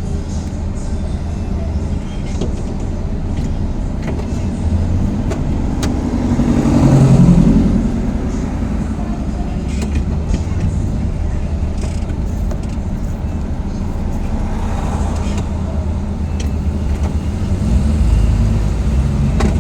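Steady low rumble of motor vehicle noise, with a louder swell about seven seconds in and a smaller one about fifteen seconds in.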